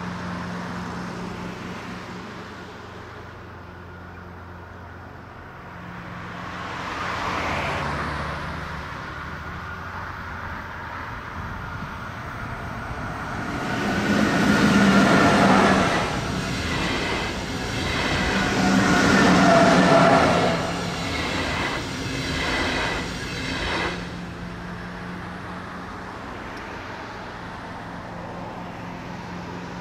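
A train passing the level crossing: a rush that builds about halfway through, stays loud for about ten seconds with a rhythmic clatter of wheels over the rails, and then falls away.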